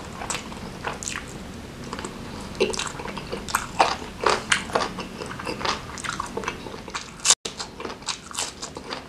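Close-up mouth sounds of a person biting and chewing grilled chicken off the bone: irregular wet smacks and sharp clicks. The sound drops out for an instant about seven seconds in.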